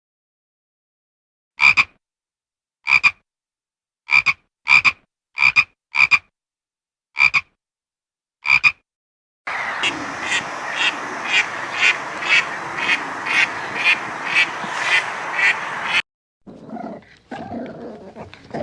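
Frogs croaking: eight short, separate croaks at uneven intervals, then a dense frog chorus pulsing about twice a second that cuts off suddenly. A different, rougher animal sound starts near the end.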